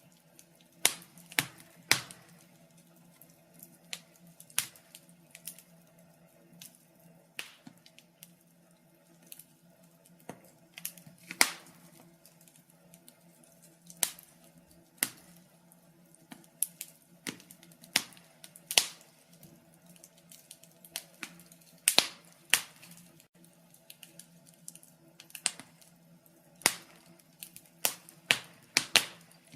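Fire crackling: irregular sharp pops and snaps, sometimes several close together, over a faint steady low hum.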